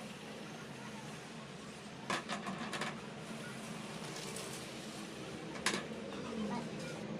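Workshop handling noises: a quick cluster of clicks and knocks about two seconds in and one sharper knock a little later, over a steady background noise.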